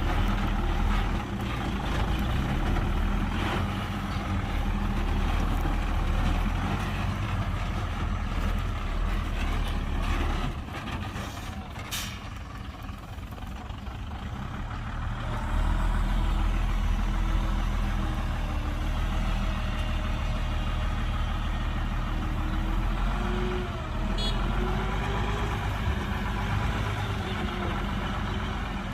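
Heavy diesel construction machinery running steadily, with the engine note getting louder and a little higher about halfway through.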